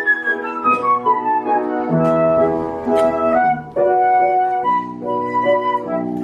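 Music: a flute playing a melody over accompaniment, with a falling run of notes in the first second or so and then longer held notes.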